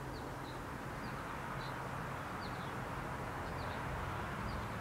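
Faint, short chirps of a small bird calling over and over, over a steady low hum.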